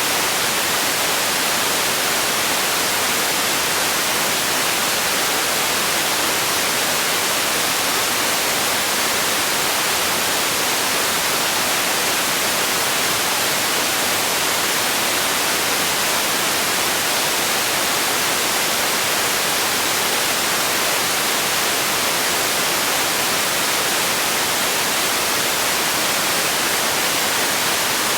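Steady white noise for sleep: an even, bright hiss that does not change.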